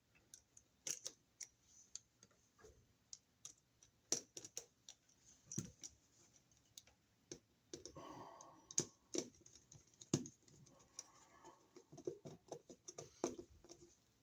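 Scattered light clicks and ticks of a screwdriver and copper wire on a wall receptacle, as the black wire is hooked around the brass terminal screw and the screw is tightened down, with a short stretch of scraping about eight seconds in.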